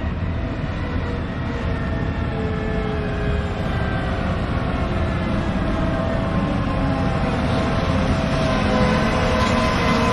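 Farm tractors and a combine harvester driving past on the road, a steady engine drone with tones that shift slightly in pitch, growing a little louder toward the end.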